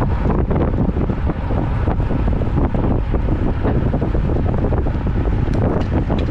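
Wind buffeting the microphone of a camera carried on a moving road bicycle, a steady loud rumble.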